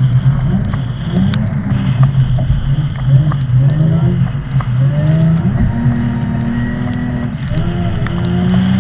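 Car engine revving hard, its pitch rising and falling in steps, with tyres squealing as the car drifts on a skid pan.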